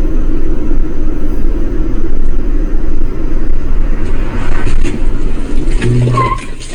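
Loud, steady vehicle rumble with road or wind noise. A brief higher tone comes in near the end, and then the noise eases off.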